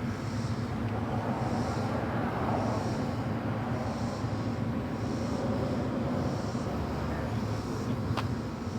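A vehicle engine running steadily, a low even rumble, with a faint high-pitched pulse repeating about once a second and a single click near the end.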